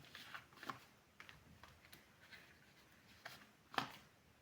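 Faint light taps and clicks of tarot cards being handled and laid down, with a couple of sharper clicks shortly before the end.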